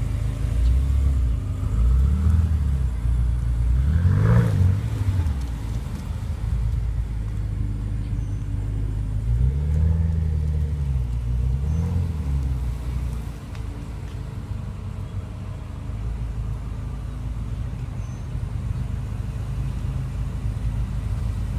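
BMW M5 F10's twin-turbo V8 exhaust, blipped several times so the pitch rises and falls, then settling to a steady idle rumble for the second half.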